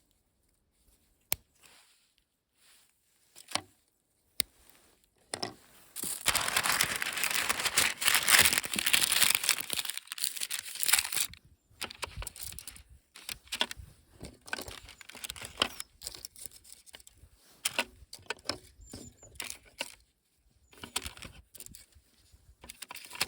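Crinkling, rustling handling noises with scattered sharp clicks; a dense stretch of rustling runs from about six to eleven seconds in.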